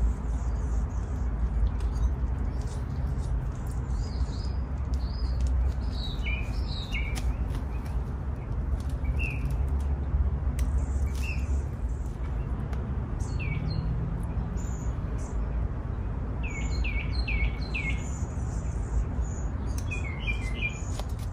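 Small birds chirping in short notes, now single and now in quick runs of three or four, over a steady low rumble, with faint crackles of dry cypress foliage being stripped by hand.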